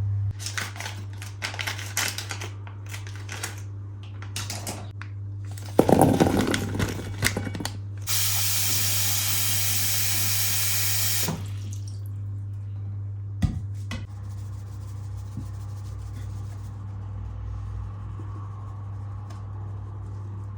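Water running from a kitchen tap for about three seconds, stopping suddenly, after a spell of clattering and handling noises; a steady low hum underlies it.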